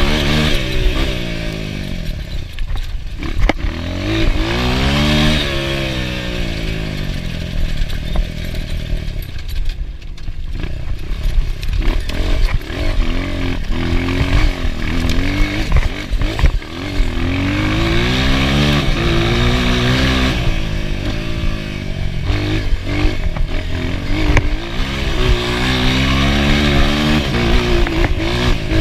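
Enduro dirt bike engine revving up and down over and over as it is ridden, with the pitch climbing and dropping every few seconds and scattered knocks and clatter.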